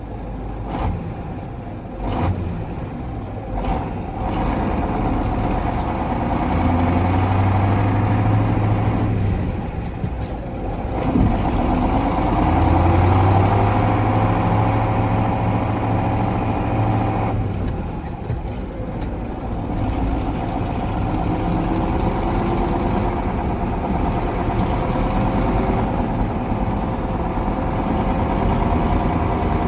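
1985 KAMAZ 4310 6x6 truck's V8 diesel engine pulling away and driving, its pitch rising and falling several times as it works through the gears. A few sharp knocks in the first few seconds.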